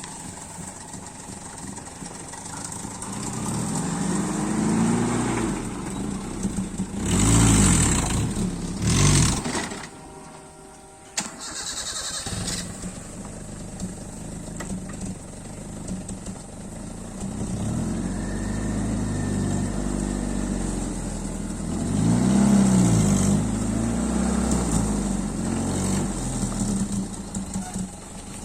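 Engine of a travelling circular-saw wood-cutting machine running. It revs up and drops back again and again, with two loud surges about seven and nine seconds in. It eases off briefly around ten seconds in, then picks up once more.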